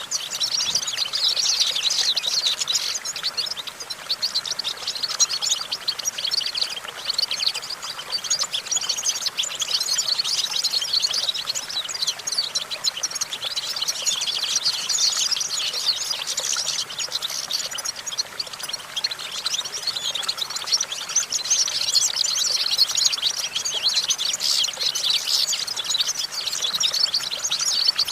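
European goldfinch singing: a rapid, continuous high-pitched twittering in long phrases, with short lulls between them.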